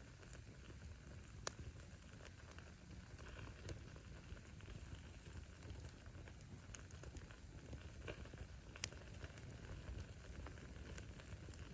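Wood fire crackling softly over a low steady rumble of flame, with scattered sharp pops of burning firewood, the loudest about a second and a half in and another near the end.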